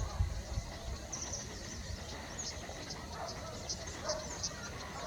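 A small bird calling in short, high chirps repeated every fraction of a second to a second, over a low rumble.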